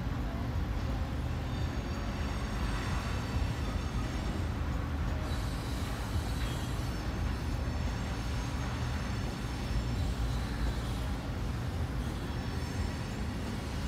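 Freight train of tank cars rolling past a grade crossing with a steady rumble and clatter of steel wheels on rail, heard from inside a car's cabin.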